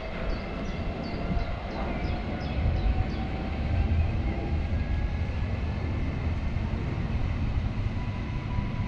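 EN57AL electric multiple unit running away along the track: a steady low rumble of wheels on rail with a faint hum that drifts slightly down in pitch, and a few light high ticks in the first few seconds.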